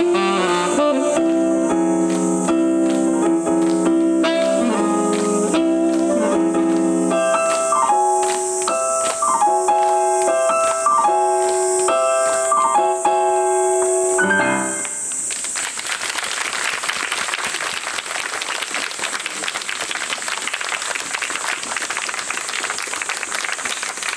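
Live jazz band, led by piano/keyboard, playing the closing phrases of a song with a repeated falling figure and held final chords; the music ends about fifteen seconds in and is followed by audience applause until the recording cuts off.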